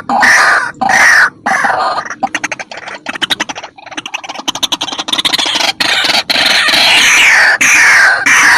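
White-breasted waterhen calling: loud, harsh calls about half a second each, breaking about two seconds in into a fast rattling run of clicks for about three seconds, then back to harsh calls that fall in pitch.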